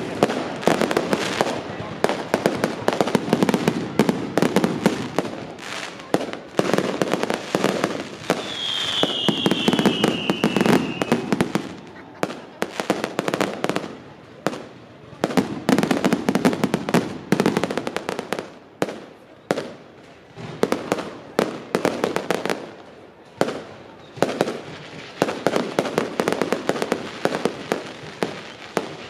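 Fireworks display: rapid bangs and crackling in dense volleys that swell and ease. A high whistle falls in pitch about nine seconds in.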